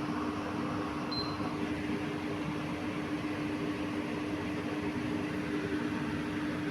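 Steady machine hum with one constant low tone.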